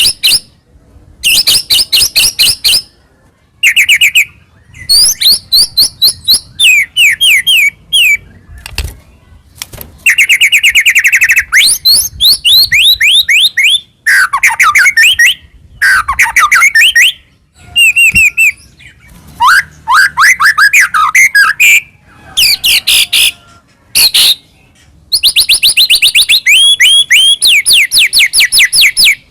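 White-rumped shama singing loudly in quick-fire phrases: runs of rapid repeated chips and sweeping whistles, broken by short pauses. This is the full, varied song of a bird in top singing form.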